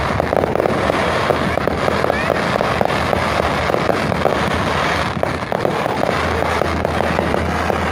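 Aerial fireworks going off in a dense, continuous run of crackling bursts and pops, many small cracks following one another in quick succession.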